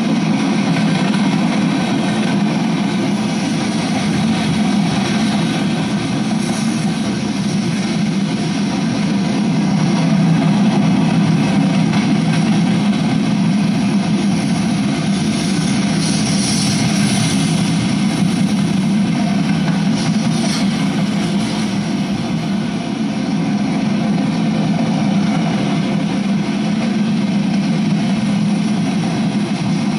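Freight train cars (covered hoppers and boxcars) rolling past, a steady rumble of steel wheels on rail. A brief higher hiss or squeal rises over it about halfway through.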